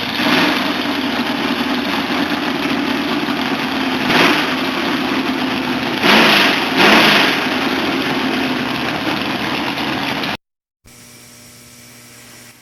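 A motor or engine running steadily, with brief surges in pitch and loudness about four seconds in and twice around six to seven seconds in, then cutting off abruptly about ten seconds in, leaving a faint low hum.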